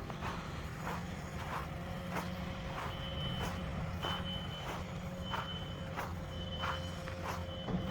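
A vehicle's reversing alarm beeping about once a second, starting about three seconds in, over the low hum of an engine, with a walker's steady footsteps.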